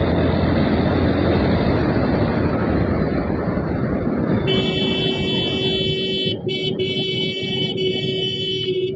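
Wind and road noise from a moving motorcycle. About halfway through, a vehicle horn starts and is held steady for the rest, with two brief breaks.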